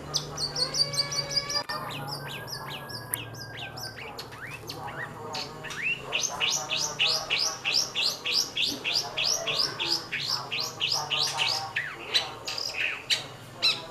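A songbird calling: a quick burst of high notes, then a long even run of short rising chirps, about three to four a second.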